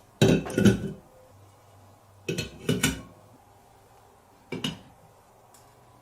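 Marbles striking and clattering over aluminium drink cans in short bursts of metallic clinks: two hits just after the start, a cluster of several around two and a half to three seconds, and a last short clatter past the four-second mark.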